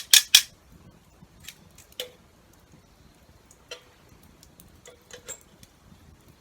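A run of sharp knocks and clicks: three loud ones in quick succession at the start, then scattered fainter ones, a few of them with a short ringing note like hard objects striking each other.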